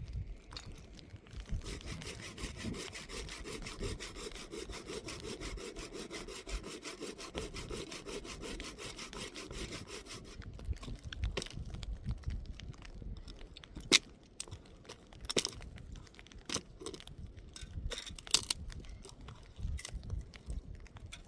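Rapid, even rasping of a tool working a hard surface for about nine seconds, then scattered knocks and clicks, with one sharp knock, the loudest, about two-thirds of the way through.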